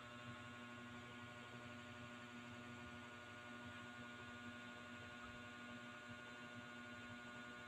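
A faint, steady hum with a constant hiss underneath, unchanging throughout.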